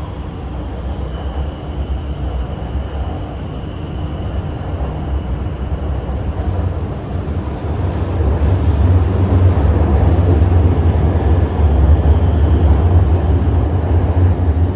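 Chengdu Metro Line 7 A-type train running, heard from inside the carriage: a steady low rumble of wheels and running gear that grows louder from about halfway through, with a faint high whine in the first few seconds.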